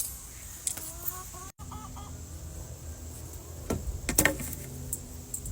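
Hens clucking softly in short calls, with two sharp knocks about four seconds in.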